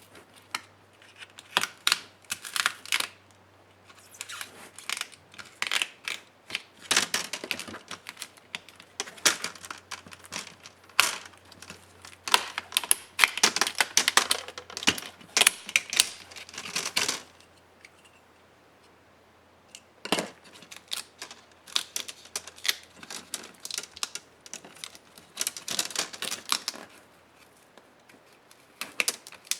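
Irregular clicks, taps and scraping of small plastic and metal laptop parts being handled and pried apart during disassembly, coming in dense bursts with a pause of a couple of seconds a little past the middle.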